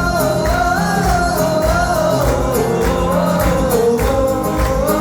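Live band music: one wavering, sliding melody line carried over a steady drum beat.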